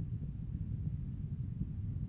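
Low, steady rumble of wind on the microphone, with no bird calls heard.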